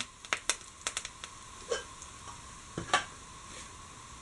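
Sliced onions, curry leaves and crushed dried chillies sizzling in oil in a pan while a spatula stirs them, scraping and tapping against the pan. The clicks come mostly in the first second and again about three seconds in.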